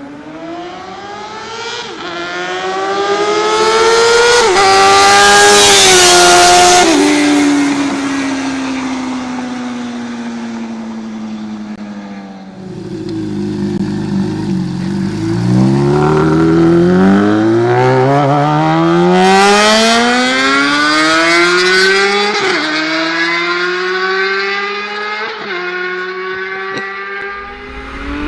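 A high-revving sportbike engine accelerating hard through the gears, its pitch climbing and dropping sharply at each upshift, then a long, slowly falling note. About twelve seconds in, a second run begins and again climbs through several shifts.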